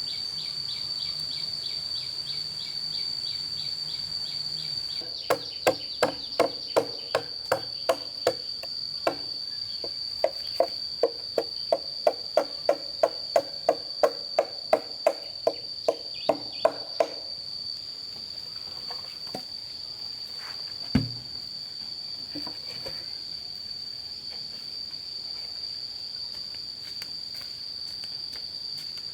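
Steady high-pitched insect drone throughout. Over it, about five to seventeen seconds in, comes a run of regular, ringing strikes on bamboo, about two a second, then one lone thump a few seconds later.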